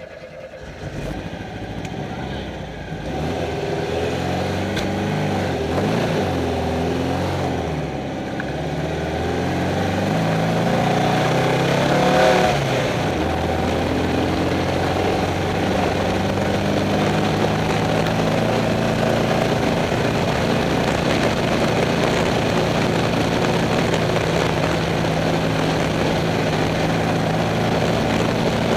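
Off-road race car engine, heard from inside the cockpit, revving up and shifting as the car pulls away: its pitch rises and falls for the first dozen seconds, then holds steady at speed.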